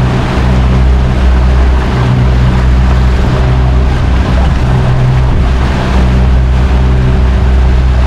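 Motorboat under way: a steady engine drone under a loud rush of wind and water.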